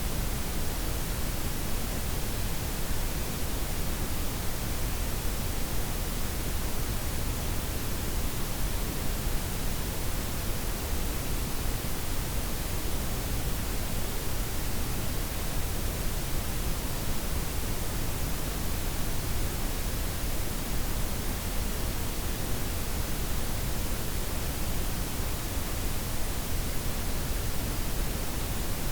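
Steady blended noise: white, pink and brown noise layered together, with the highs softened, an even hiss-and-rumble with no changes or events.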